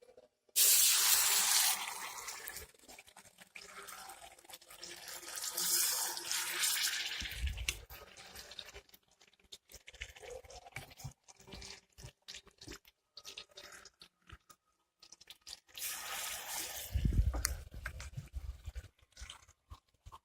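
Chicken pieces going into hot coconut oil in a pan, the oil sizzling up in three loud surges as pieces are added, with clicks and a few low knocks of the pan and utensils between.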